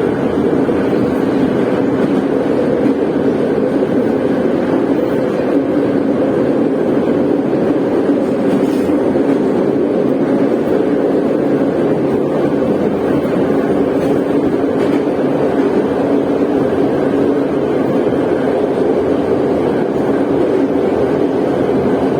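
Moscow Metro train running at speed between stations, heard from inside the carriage: a steady rumble of wheels on rails with a droning hum and a few faint clicks.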